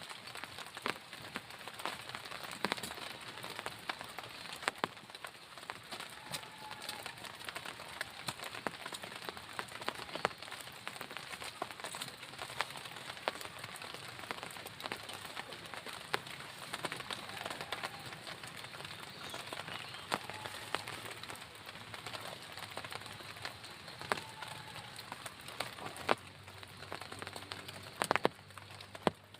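Steady heavy rain, with many sharp individual drops striking a surface close by, a few louder hits near the end.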